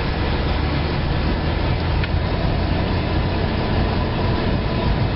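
Steady road and engine rumble inside the cabin of a 1999 Pontiac Grand Am GT under way, with its 3400 V6 running.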